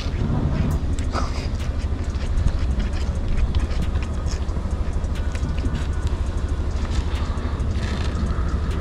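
Motorcycle engine running with a steady, rapid low throb, with scattered light clicks over it.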